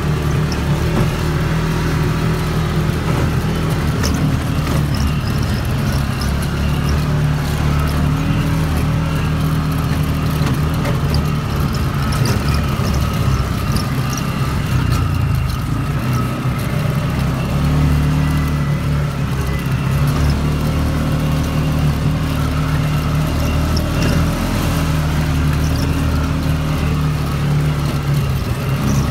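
CFMOTO ATV engine running while riding along a trail, its pitch mostly steady with small rises and falls as the throttle changes.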